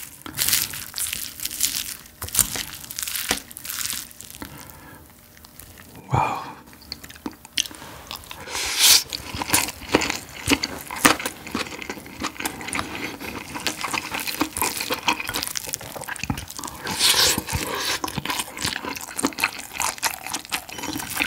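Wooden spoon stirring rice with soy-marinated abalone and seasoned laver in a stoneware bowl: sticky, wet clicks and scrapes. This is followed by close-miked chewing of the mouthful, with wet smacking and crunchy crackles.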